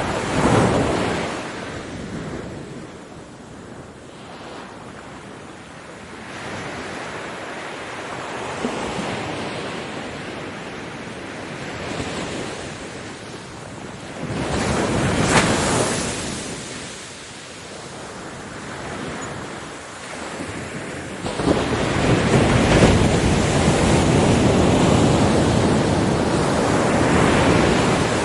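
Ocean waves breaking on a beach, the surf rising and falling in several surges, with a sustained loud wash over the last third.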